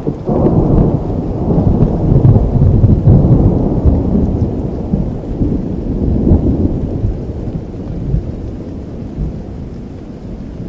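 A long roll of thunder over steady rain: it breaks sharply just after the start, swells over the next few seconds and dies away toward the end.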